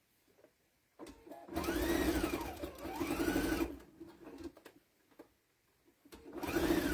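Electric sewing machine stitching binding onto a quilted potholder: a run of about two seconds starting a second and a half in, the motor speeding up and slowing down twice, then a few light clicks, and a second run starting near the end.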